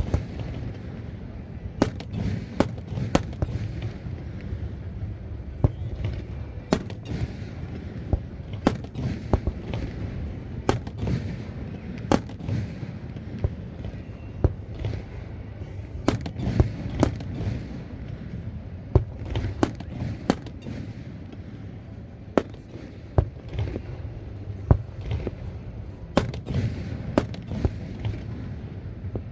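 Aerial fireworks display: a rapid, irregular series of sharp bangs and cracks, dozens of them, over a continuous low rumble of shell bursts.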